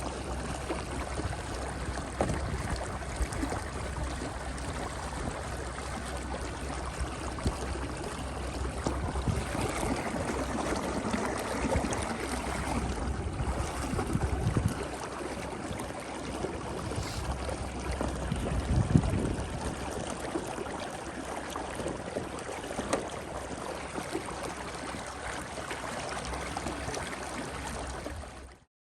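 Water splashing and lapping against a fishing kayak's hull as it moves through rough river water, with wind rumbling on the microphone. The sound cuts off suddenly near the end.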